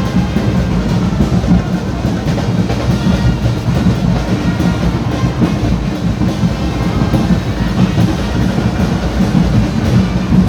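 Loud carnival street music: a band's drums and percussion playing a steady beat without letup.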